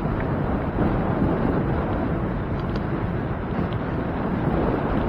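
Wind rushing over the microphone with a low, steady rumble of a bicycle ride in motion, a few faint ticks through it.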